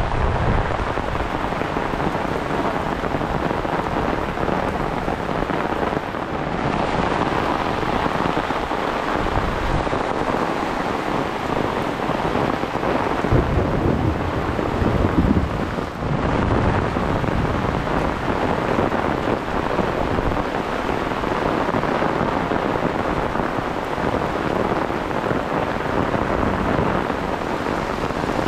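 Heavy rain falling steadily, a dense continuous hiss, with low rumbles swelling at the start and again around the middle.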